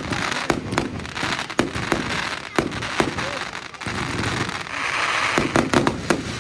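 Fireworks display: a quick run of sharp bangs from bursting shells over continuous crackling, with a dense patch of crackle about five seconds in.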